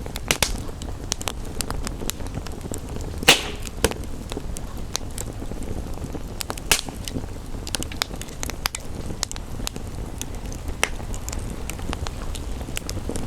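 Wood fire crackling and popping over a steady rain-and-fire rumble, with irregular small snaps throughout. A loud pop comes about three seconds in and another near the middle.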